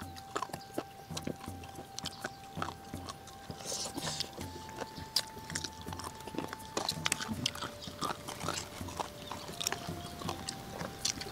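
Close-miked mukbang eating sounds: wet chewing, sucking and smacking as people gnaw chicken bones from a spicy seblak broth, in many short, irregular clicks and crackles. A faint steady whistle-like tone sits in the background, changing pitch a few times.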